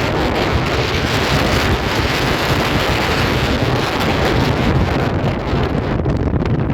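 Strong wind buffeting the microphone, a loud steady rush that eases a little near the end.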